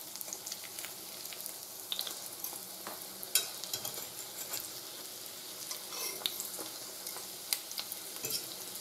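Dough pies frying in vegetable oil in a stainless steel pan: a steady sizzle, with sharp clicks and light scrapes several times as a fork turns the pies over.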